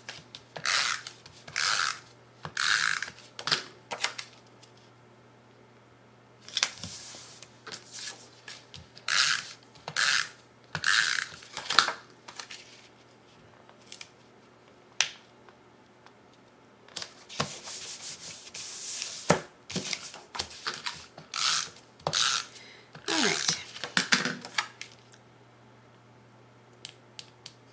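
Paper rustling and rubbing in short bursts as patterned paper squares are handled and pressed down onto the card panels of the box.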